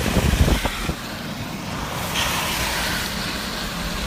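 A car driving, with a steady rush of road noise over a low engine rumble and a few short knocks in the first second.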